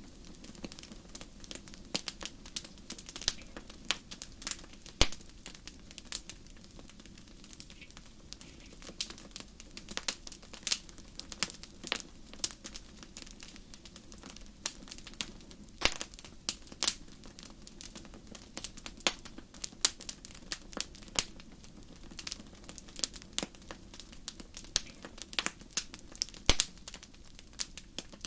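Fireplace fire crackling, with frequent irregular sharp pops over a low, steady rumble.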